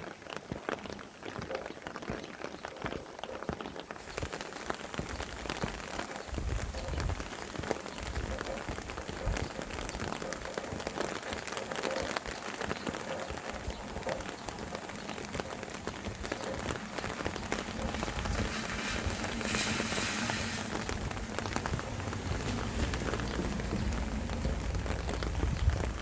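Rain falling steadily with the patter of individual drops. Wind gusts in a low rumble that comes and goes from about six seconds in, and a louder hissing rush comes about twenty seconds in.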